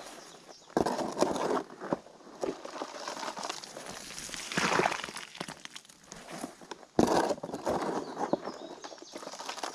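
Freshly mixed concrete being scooped and worked into a fence-post hole: irregular bouts of scraping with sharp knocks, loudest about a second in, about five seconds in and about seven seconds in.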